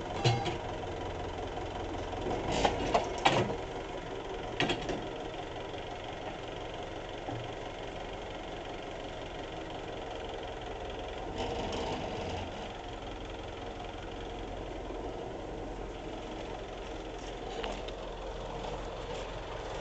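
An engine idling steadily, with a few sharp knocks: one right at the start, a quick cluster about three seconds in and another near five seconds.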